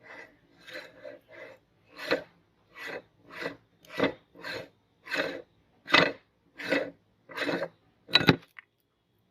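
Meat grinder crushing an item: a rasping crunch repeating about one and a half times a second, the strokes growing louder, then stopping shortly before the end.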